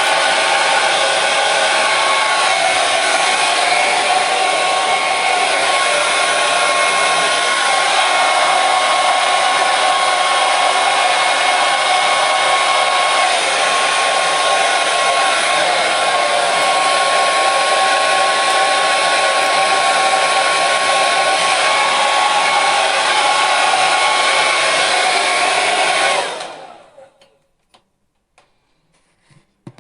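Hair dryer running steadily, a loud even rush of air with a faint whine in it. About 26 seconds in it stops and dies away within half a second, leaving near silence.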